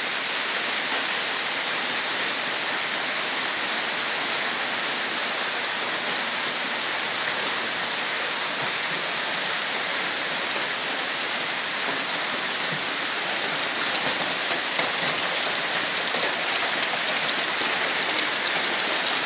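Heavy rain falling steadily, a dense even hiss of rain on surfaces, growing a little louder near the end.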